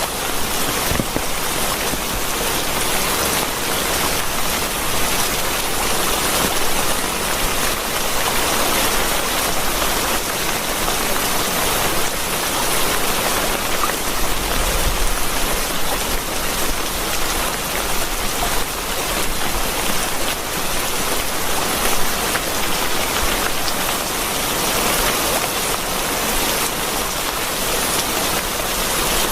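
Steady rain: a dense, even hiss of falling water with many small individual drop hits through it.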